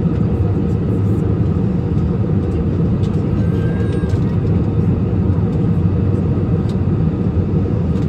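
Steady drone of an airliner cabin in flight: engine and airflow noise, low and unchanging.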